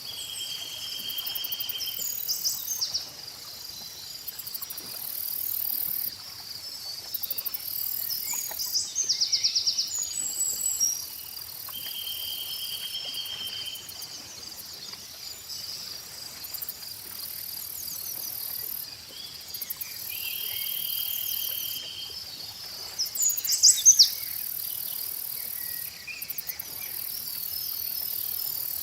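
Insects and crickets trilling steadily in several high layers, one buzzing trill switching on and off every few seconds, with birds chirping at intervals, the loudest runs of chirps about a third of the way in and again near the end.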